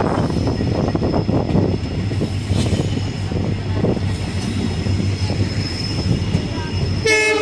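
Passenger train running, heard from on board: a steady rumble of wheels on rails with frequent clicks over rail joints and a thin, steady high whine. Just before the end a horn starts, a steady pitched blast.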